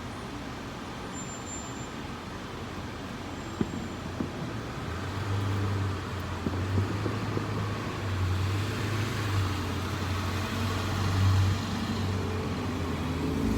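A road vehicle going by: a low engine hum with tyre and road noise that swells from about five seconds in and fades again near the end.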